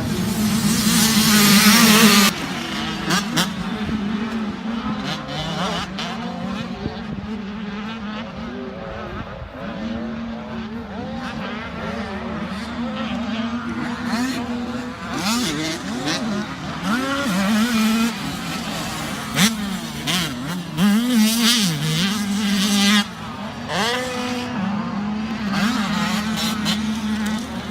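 Motocross dirt bike engine racing around a track, its pitch climbing and dropping again and again as the throttle opens and closes and the gears change. A loud rush of noise fills the first two seconds.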